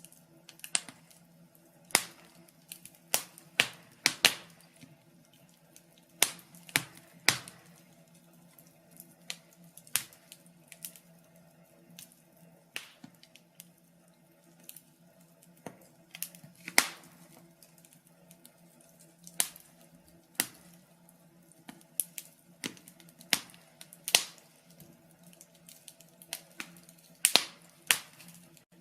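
Wood fire crackling: irregular sharp pops and snaps, a few louder ones in quick clusters, over a faint steady low hum.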